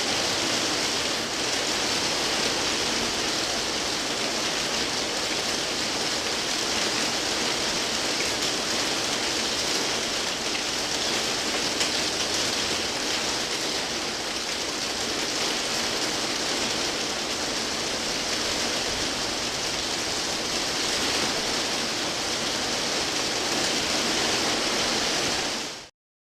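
Heavy rain falling steadily, a dense even hiss, fading out quickly near the end.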